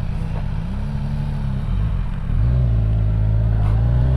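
Motorcycle engine running at low revs, getting louder about two seconds in as the bike pulls away, its pitch starting to rise near the end.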